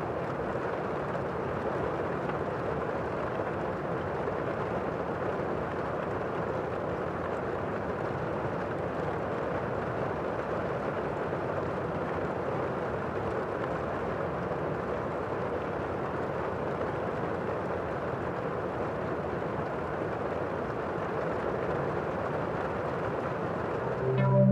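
Steady, even rain, a constant wash of noise with no distinct drops or thunder. A synthesizer chord comes in at the very end.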